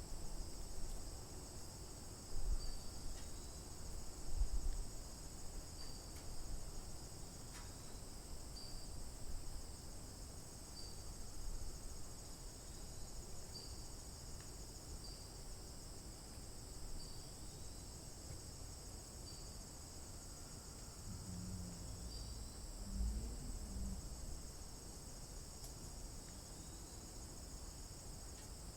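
Steady, high-pitched chorus of insects such as crickets, with a short high note repeating about every second and a half and a few soft low thumps.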